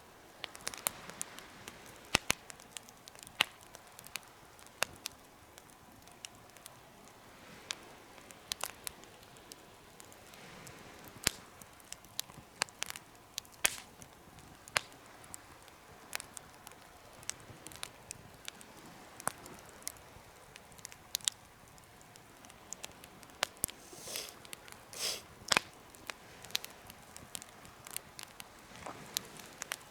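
Wood fire in a DIY fire stand crackling, with irregular sharp pops over a low hiss. There are a few louder, longer hissing bursts late on.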